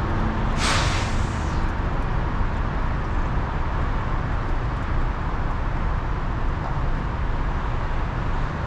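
Steady road-vehicle noise with a low rumble, and a short hiss about half a second in.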